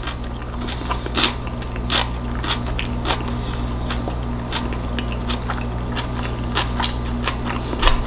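A person chewing a mouthful of salmon taco in a soft handmade tortilla, close to the microphone: irregular wet clicks and smacks, one or two a second, over a steady low hum.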